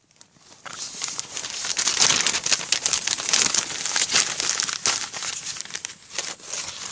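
Sheet of paper crumpling and crackling, starting about half a second in and going on as a dense, irregular crackle.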